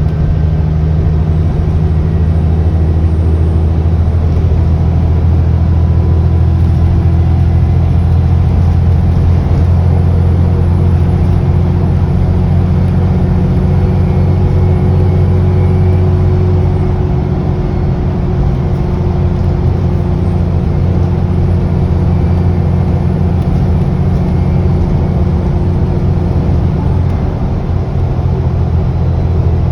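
Diesel engine of an Alexander Dennis Enviro400 double-decker bus running under way, heard on board, with a thin high turbocharger whine that rises and falls in pitch twice.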